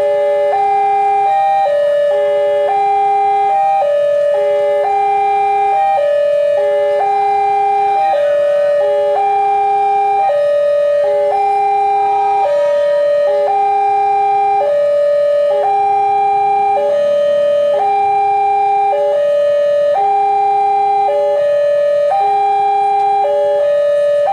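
Electronic railway level-crossing warning alarm sounding continuously: a loop of three electronic notes stepping up and down, repeating about every two seconds at a steady level.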